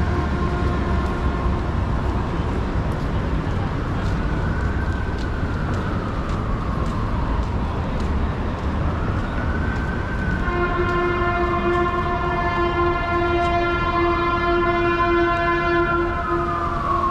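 Emergency vehicle siren wailing in slow rising and falling sweeps over city traffic, joined by a steady horn tone that grows much louder about ten seconds in and holds to the end.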